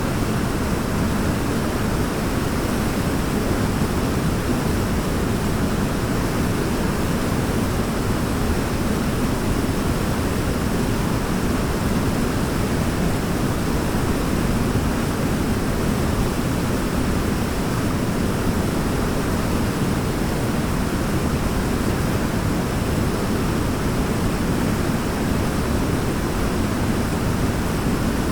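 Waterfall rushing: a steady, dense wash of falling water, heaviest in the low range, with no distinct splashes.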